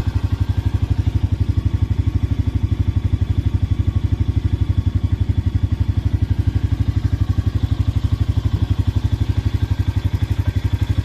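Motorcycle engine idling steadily, with a fast, even low pulse.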